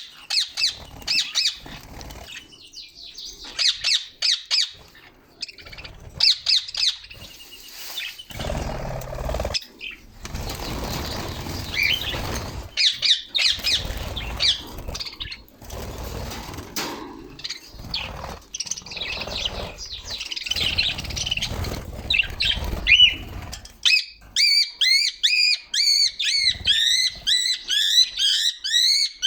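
Pet budgerigars chirping and chattering in short high calls, with long stretches of low rumbling noise through the middle. Near the end one bird breaks into a fast, even run of repeated calls.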